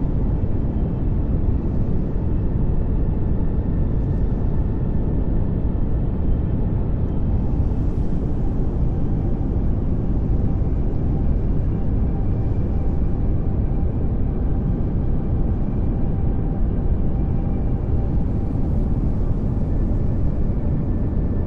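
Steady pink noise: an even, unchanging hiss weighted towards the low end, with a few faint held tones in the middle range.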